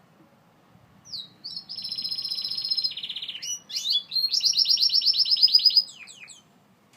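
Gloster canary singing a single phrase of about five seconds, built of fast trills of repeated high notes that change type every second or so, with quick sweeping notes between them.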